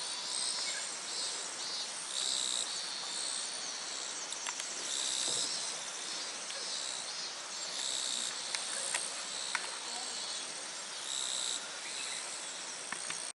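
Summer insects calling in a chorus: high-pitched pulsed trills that repeat every second or so, with a few faint clicks among them.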